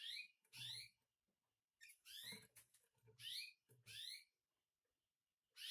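Caged canaries chirping: about six short, high calls, each sliding down in pitch, with silent gaps between them.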